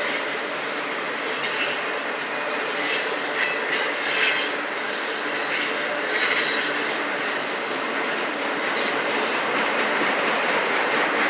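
Norfolk Southern freight train of autorack cars rolling past at close range: a steady rumble and rush of steel wheels on rail, with short high-pitched wheel squeals coming and going every second or so.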